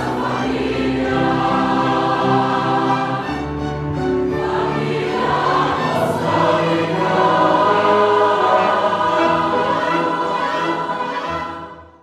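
Choir singing a sustained hymn with instrumental accompaniment, fading out near the end.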